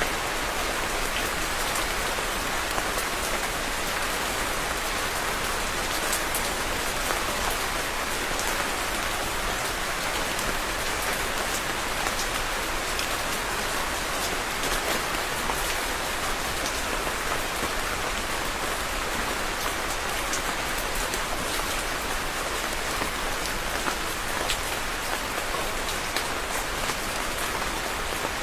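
Steady rain falling, an even hiss with scattered close drops ticking.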